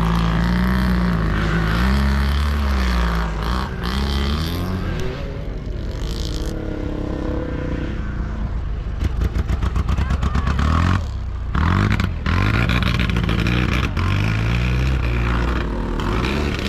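Motocross sidecar outfits' engines revving and passing, the pitch rising and falling as they accelerate and shift. From about nine seconds in, one engine runs loud and close, its rapid firing pulses clearly heard.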